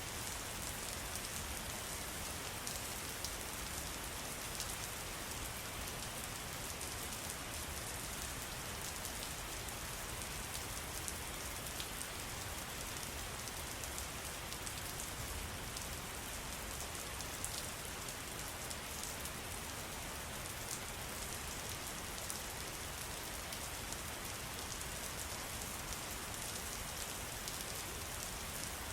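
Steady patter of falling water, with many small drop ticks over an even hiss that keeps up without a break.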